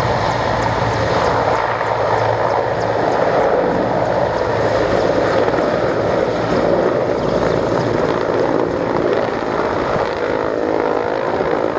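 Aircraft engines running with a steady, loud drone.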